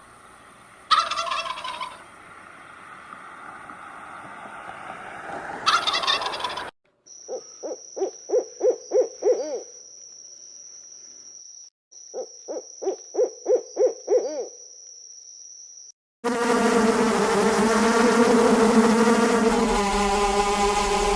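Fowl calling: two loud calls, then a rapid rattling call of about eight quick pulses, heard twice. About three-quarters of the way through, a steady, loud sound with many stacked tones takes over.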